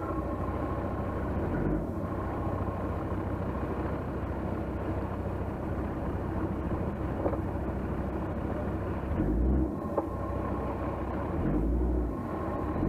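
Engine of an off-road 4x4 running steadily close by during a mud recovery, with a couple of short low rumbles near the end.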